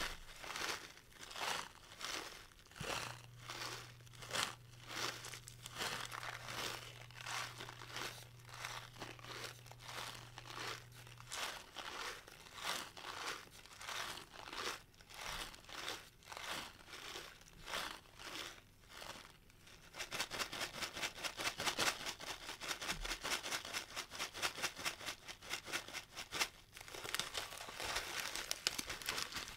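Desiccant packets being squeezed and rubbed close to the microphone, giving crinkling and crunching. The strokes come about one and a half a second at first, then about two-thirds of the way through turn to faster, denser crinkling.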